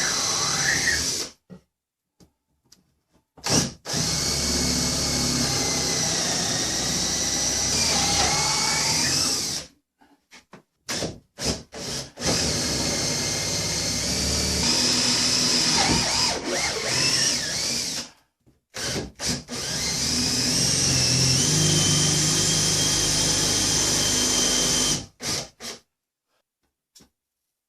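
Power drill running in three long runs of about six seconds each, with a steady motor whine and brief stop-start trigger blips between them. It is drilling through the timber roof supports for the bolts.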